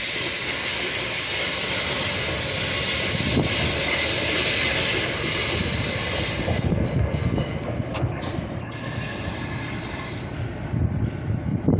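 Train wheels squealing on the rails as a train runs past, a steady high squeal over a rumble. The squeal breaks off about six and a half seconds in, returns briefly a couple of seconds later, and then only the rumble is left.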